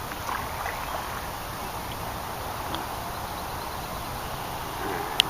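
Steady hiss of rain falling, with one sharp click near the end.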